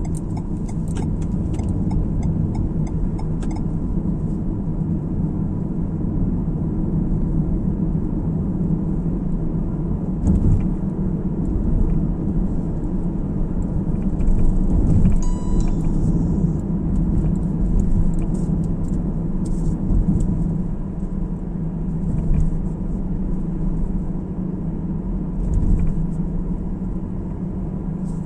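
Steady low rumble of a car driving along the road, tyre and engine noise with a few faint clicks in the first seconds. A short electronic beep sounds about halfway through.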